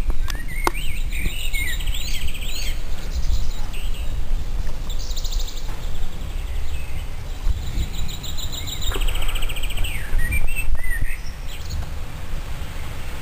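Several songbirds chirping and singing fast trills, over a loud, constant low rumble.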